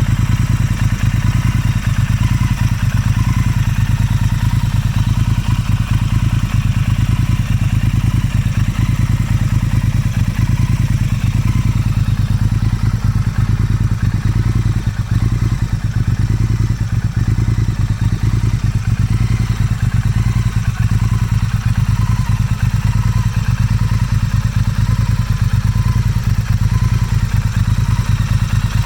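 Motorcycle engine running steadily at a constant speed, a fast even exhaust beat with no revving.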